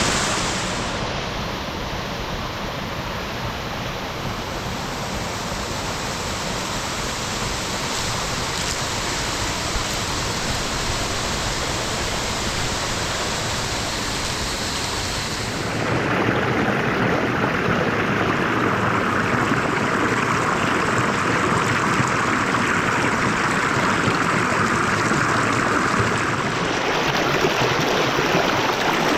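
Steady rush of water from heavy rain and running runoff. About halfway through the sound changes abruptly, becoming louder and brighter, and it shifts again near the end.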